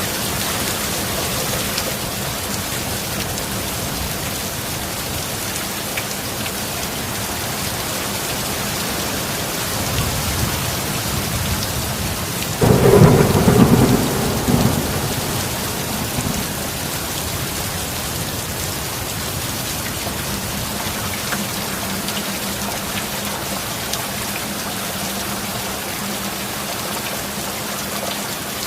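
Steady heavy rain hissing throughout. A low thunder rumble builds about ten seconds in, then breaks into a sharp, loud thunderclap that lasts about two seconds and dies away a couple of seconds later.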